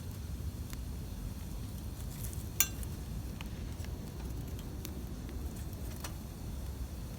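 Wood campfire burning with a low steady rumble and scattered crackles, one sharp pop about two and a half seconds in.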